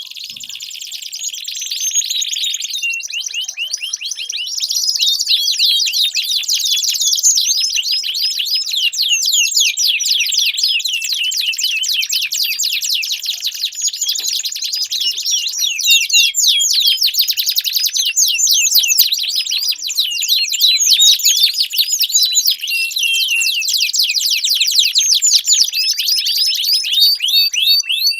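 Domestic canary singing a long, unbroken song of fast, high-pitched trills and chirps, the phrases changing from one rapid rolling trill to the next.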